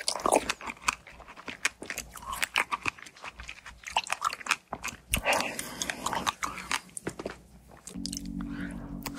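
Close-up chewing of fresh strawberries with whipped cream: a dense run of wet, crunchy mouth clicks. About eight seconds in, a steady low drone sets in under it.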